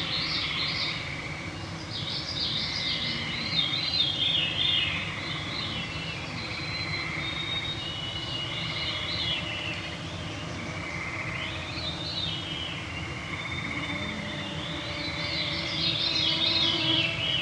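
Evening woodland chorus: songbirds sing phrases that sweep downward, coming every few seconds and loudest near the end, over a steady high trill from frogs and the thin whine of mosquitoes.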